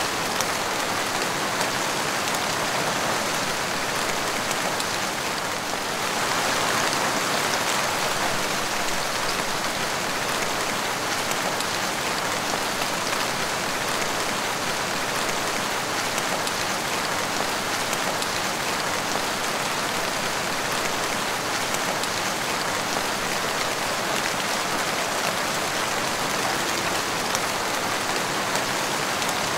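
Steady rain falling on a wet tiled patio floor, a dense even patter of drops splashing, growing a little louder for a few seconds about six seconds in.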